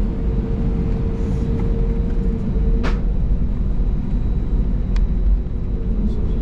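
Cabin noise of an Airbus A320neo taxiing: a steady low rumble from the engines at idle and the rolling aircraft. A steady hum fades out about halfway and comes back near the end, and there is a sharp click about three seconds in and a fainter one near five.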